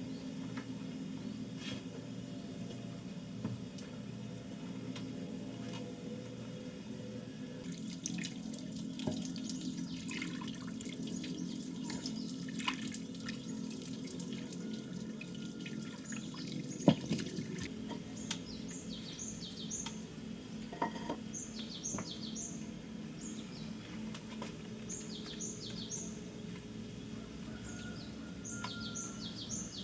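Water running and splashing with scattered small clicks and knocks. From about halfway through, a bird chirps in short repeated groups of three or four high notes.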